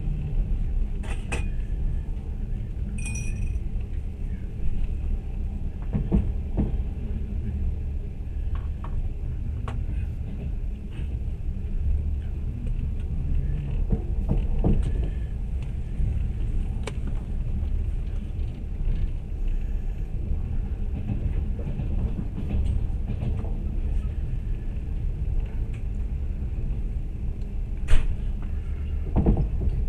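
Steady low rumble of a moving train heard from inside the carriage, with scattered sharp clicks and knocks; the loudest knock comes near the end.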